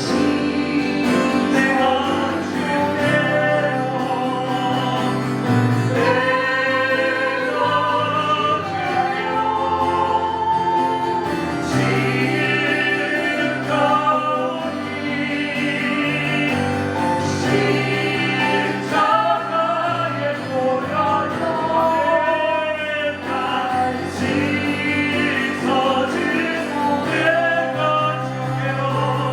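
Voices singing a Christian hymn together over instrumental accompaniment.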